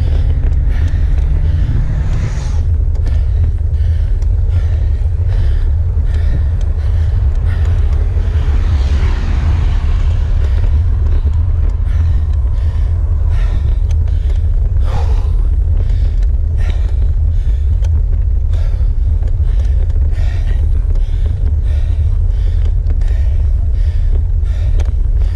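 Wind buffeting the microphone as a steady low rumble, with a cyclist's laboured breathing on a hard climb coming in short, even puffs about once a second.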